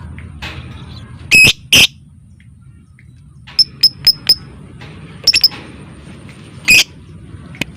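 Lovebird giving loud, shrill, clipped calls. Two calls come a little over a second in, then a run of four quick, sharp chirps in the middle, a short cluster, and another loud call near the end, over a low, steady background noise.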